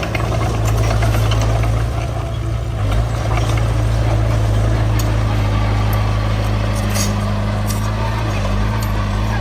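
Heavy diesel engine of construction equipment running steadily under load, with a few short metallic knocks.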